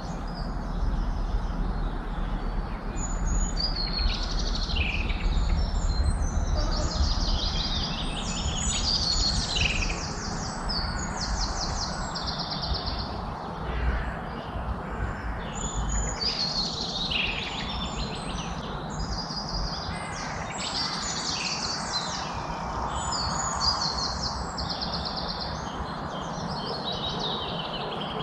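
Several songbirds singing and calling over one another, with many rapid high trills and chirps, over a steady low rumble of background noise that is heavier in the first half.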